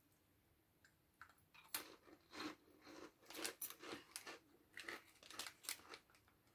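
Combos Pizzeria crunchy oven-baked pretzel snacks being chewed: a run of quiet, irregular crunches, one or two a second, starting about a second in.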